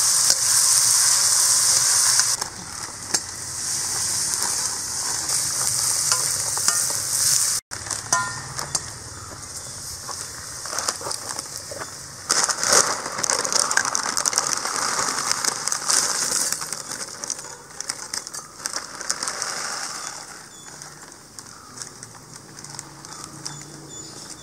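Sliced onions sizzling in hot oil in a steel wok, stirred with a metal spoon. The hiss cuts off suddenly about eight seconds in and gives way to quieter rustling and clicking as dry instant noodles are emptied from their packet into a glass bowl.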